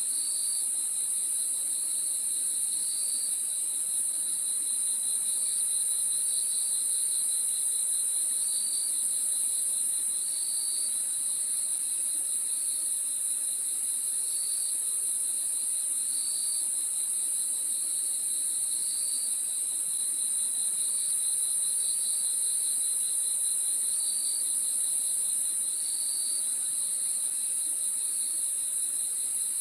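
Crickets chirping at night in a steady chorus: a continuous high trill with a lower, rapidly pulsed chirp repeating about every second and a half.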